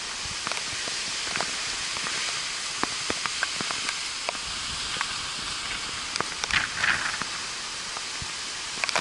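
Hurricane wind and driving rain: a steady hiss with scattered sharp ticks, briefly louder about two-thirds of the way through.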